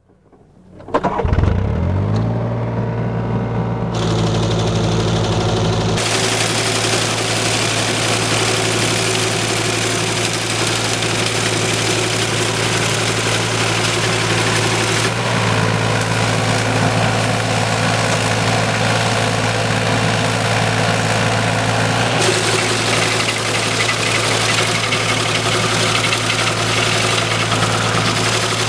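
Excavator's diesel engine rising in pitch over the first two seconds, then running steadily to drive a hydraulic sickle bar mower. A broad hiss of machinery and cutting grows in about four and six seconds in.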